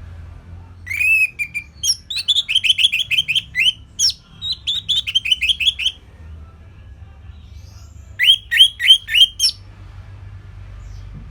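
Orange-headed thrush singing: fast runs of short, repeated whistled notes, one long run, then a shorter run after a pause of about two seconds.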